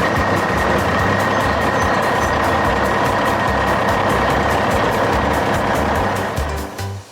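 A heavy farm machine's engine running steadily with a faint high whine, then fading out at the very end.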